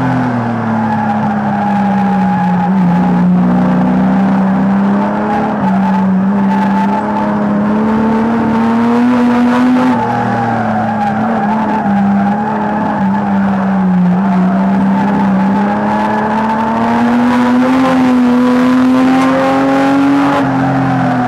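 Rear-wheel-drive banger racing car's engine heard from inside the cockpit, running hard around the track. Its pitch drops right at the start, climbs slowly, drops sharply about halfway, then climbs again before easing off near the end.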